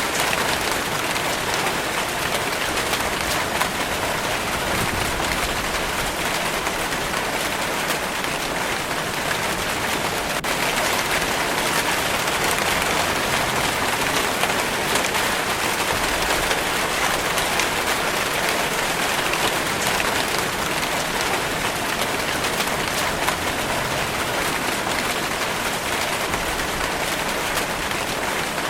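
Steady rainfall: a dense, even hiss of rain pattering on surfaces, unchanging in level.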